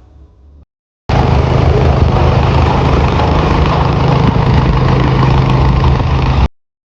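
Hino Dutro truck engine running steadily and loudly through its newly fitted catalytic converter and exhaust. It cuts in abruptly about a second in and cuts off just before the end.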